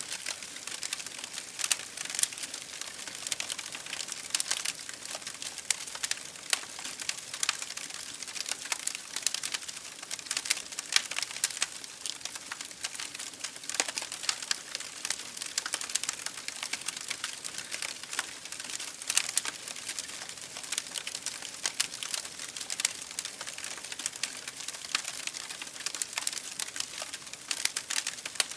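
Wood fire in an open fireplace crackling, with a dense, continuous run of sharp pops and snaps.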